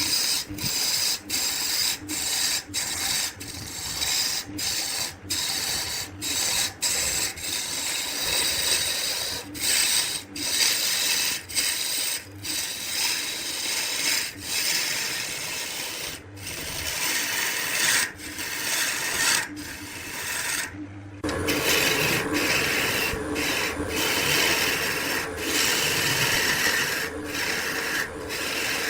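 Wood being turned on a lathe: a turning tool scraping and cutting the spinning wood with a steady rasp, broken by frequent brief breaks. About 21 seconds in, the sound changes abruptly to a fuller, lower rasp.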